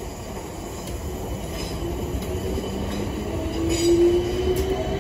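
Class 455 electric multiple unit running along the platform: steady wheel-on-rail rumble growing louder to a peak about four seconds in, with a faint whine rising slightly in pitch in the second half.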